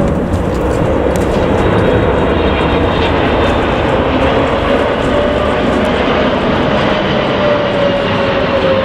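Jet airliner engines running loud and steady, with a whining tone that slowly falls in pitch.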